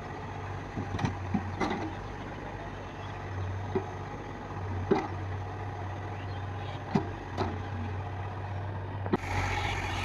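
Heavy diesel machinery engine running steadily, with short sharp metallic knocks every second or so. It gets louder about nine seconds in.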